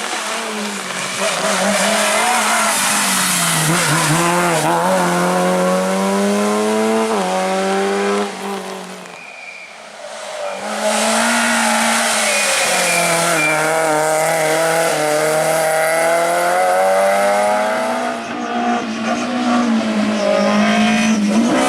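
Rally car engine at high revs, its pitch climbing and dropping again and again as the driver shifts gears and lifts off. The sound falls away for a moment about nine seconds in, then a car comes through loud again.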